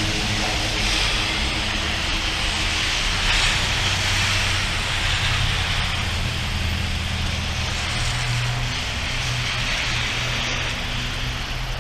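Steady hiss of heavy rain during a thunderstorm, with a low steady droning hum underneath that fades toward the end.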